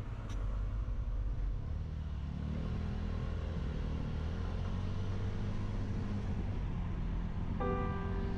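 Motorcycle engine running under way, recorded from a GoPro mounted on the bike; its pitch rises as it accelerates about two seconds in, then holds steady. Background music with clear piano-like notes comes in near the end.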